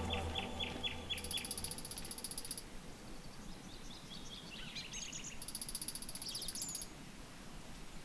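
Wild birds calling: a quick run of about eight chirps in the first second and a half, then scattered chirps. Two spells of a rapid, very high trill, each over a second long, come in early on and again near the end. Soft music fades out during the first second or so.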